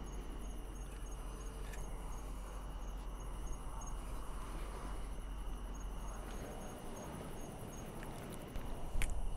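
Crickets chirping in an even rhythm, about three to four chirps a second, over a low steady rumble, with one sharp click near the end.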